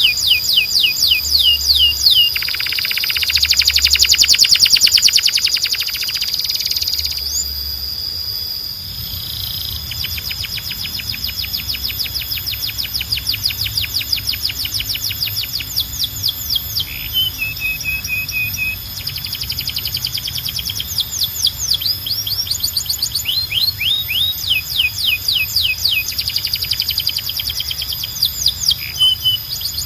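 Domestic canary singing in long fast trills of repeated falling notes, with a dense buzzy roll a few seconds in and a short run of flat notes near the middle.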